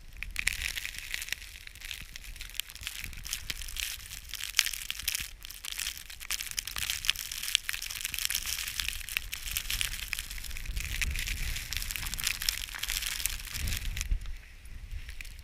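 Footsteps crunching through deep snow, a dense continuous crackle of packing snow.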